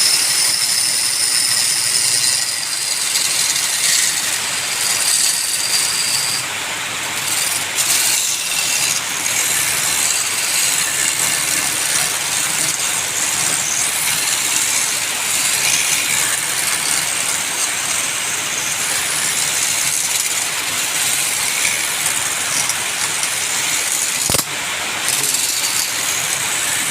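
Wood lathe running while the spinning wood is worked, a steady loud hiss, with a single sharp click near the end.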